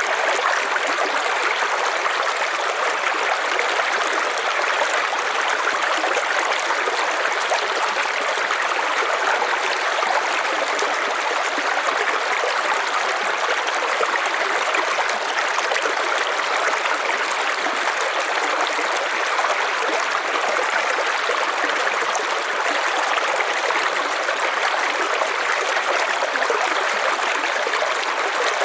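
River water flowing over stones: a steady, unbroken rushing with fine gurgles, even throughout.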